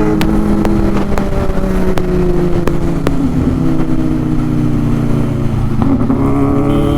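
Kawasaki inline-four sport motorcycle engine running under way at a fairly steady speed, its pitch easing slightly downward and then holding.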